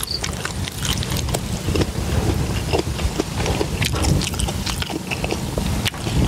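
A person chewing food close to the microphone: irregular wet clicks and crunches of the mouth, over a steady low rumble.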